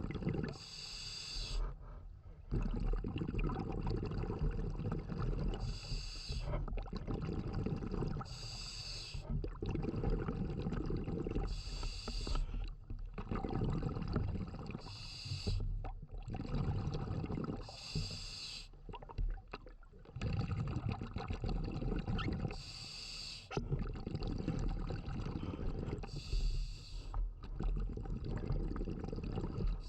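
Scuba diver breathing through a regulator underwater. A short hiss of inhalation comes every three to five seconds, with low rumbling exhaled bubbles between.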